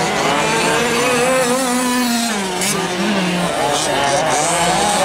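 Several 1/5-scale RC trucks' small two-stroke gas engines racing together, their overlapping whines rising and falling in pitch as they rev and back off.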